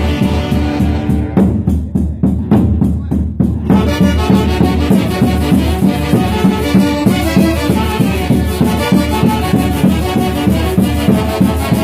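Traditional Andean folk band music with wind instruments over a steady beat. From about a second in, the high parts drop out for roughly two seconds, leaving only the bass and rhythm, then the full band returns.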